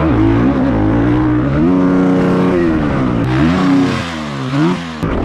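Motocross dirt bike engine ridden hard, revving up and held at high revs for about a second, then cycling off and on the throttle in quick blips, with a brief drop-off near the end.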